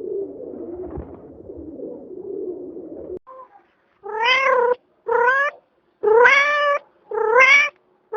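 A domestic cat meowing repeatedly: four drawn-out meows, each rising slightly in pitch, with short gaps between them, beginning about four seconds in. Before them, a low murmuring sound stops abruptly about three seconds in.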